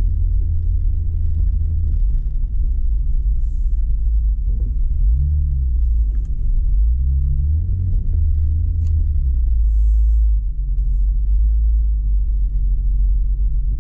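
Loud, steady low rumble of a Jeep's engine and drivetrain on a snowy trail. The engine note rises and falls a few times about halfway through.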